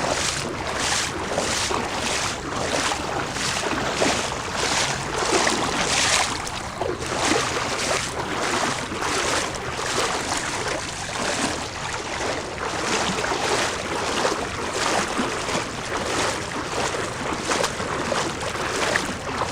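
Someone wading through knee-deep floodwater: the water sloshes and splashes in an even rhythm of about one and a half strides a second.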